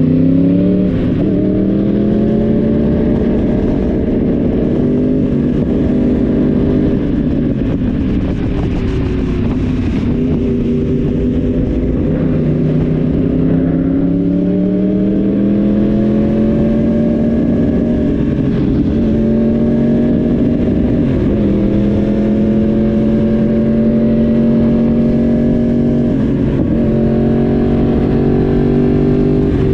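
Yamaha YZF-R1 crossplane inline-four engine and exhaust under way, pulling through the gears. The engine note climbs steadily and drops back at each of several gear changes.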